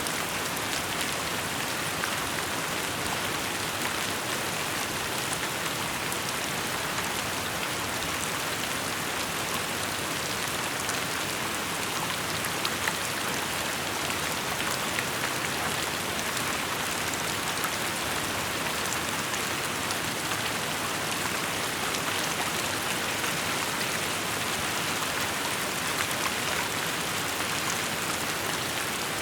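Steady rainfall, an even wash of falling rain with many small individual drop ticks scattered through it.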